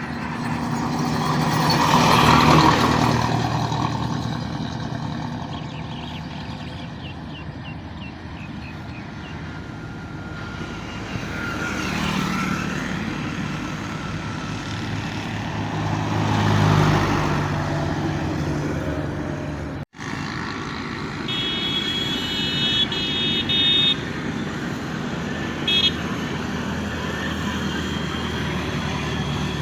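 Road traffic with heavy vehicles passing one after another, each one's engine noise swelling and fading as it goes by. Later a horn sounds for about two and a half seconds, followed by a short toot a couple of seconds after.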